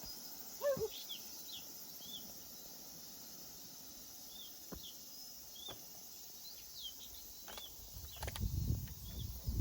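Insects buzzing steadily with a bird giving short, repeated chirps, and a few lower calls in the first second. A low rumble builds near the end.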